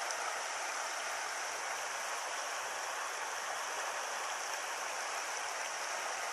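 Small stony stream flowing over rocks: a steady rushing of water, even throughout.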